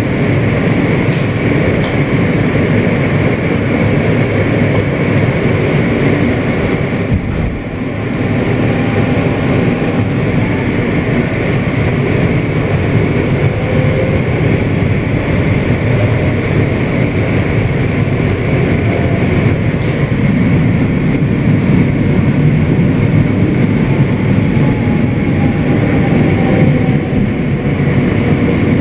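Kawasaki R160B subway car with Siemens propulsion running along the track: a steady rumble of wheels on rail with a constant high hum, a few faint sliding whines and a couple of sharp clicks.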